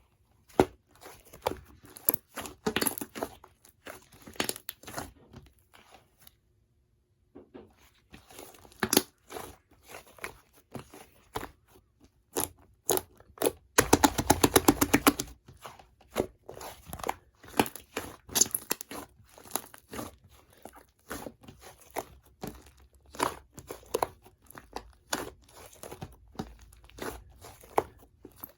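Fluffy slime being squeezed, poked and pressed by hand, giving irregular crackling, popping clicks. About halfway through comes a dense, rapid run of pops lasting a second or two. There is a brief dead-silent gap about six seconds in.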